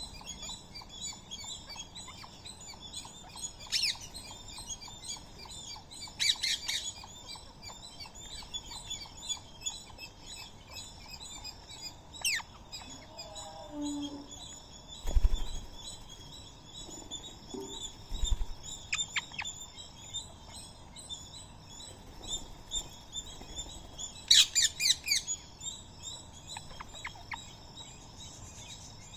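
Many birds chirping continuously in a busy chorus, with a few louder, sharper calls standing out. Two dull low thumps about halfway through, the first the loudest sound.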